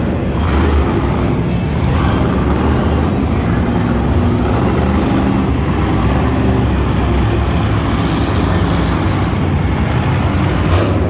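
Monster truck engine noise, loud and steady throughout.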